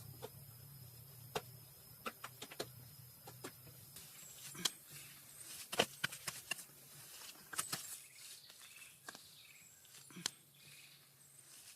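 Irregular light knocks and clicks, as of hand work, over a faint outdoor background. A thin high insect-like note runs for the first few seconds, and faint short bird chirps come in the second half.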